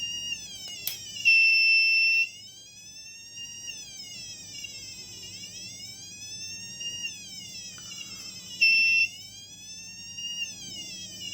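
Electronic siren from a breadboard police-light circuit, a high wailing tone that sweeps slowly up and down in pitch about every three and a half seconds. Twice it jumps louder and holds a steady high tone at the top of its sweep.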